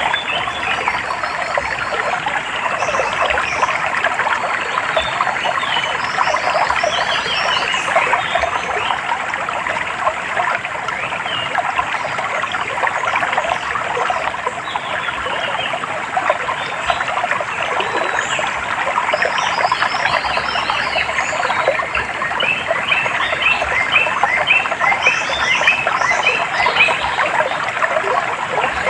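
Water running steadily in a stream, with birds calling in short, quick repeated chirps over it, most thickly near the end.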